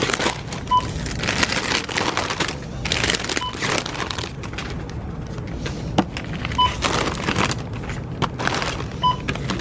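Supermarket checkout barcode scanner beeping four times, a few seconds apart, as items are scanned, over crinkling of snack packets and clattering checkout noise.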